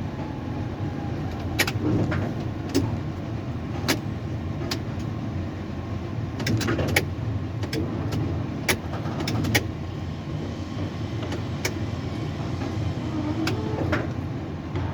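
Steady low machinery hum, with about a dozen sharp clicks and ticks scattered through it.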